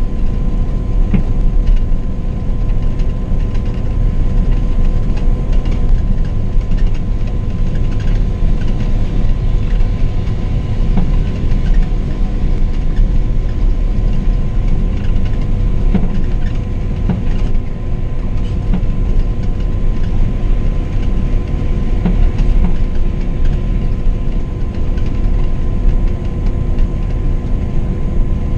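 Scania K420 double-decker coach driving at steady speed: a loud, unbroken low rumble of engine, tyres and road, with a faint steady hum held on one pitch above it.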